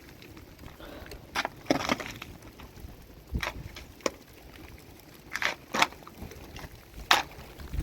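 A series of irregular sharp knocks and clacks, about seven of them, a few with a short rattle after.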